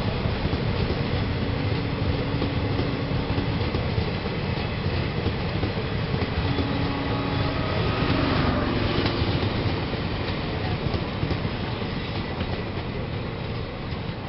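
Indian Railways passenger express train rolling past, its coaches making a steady rolling noise that fades gradually as the last coach moves away near the end.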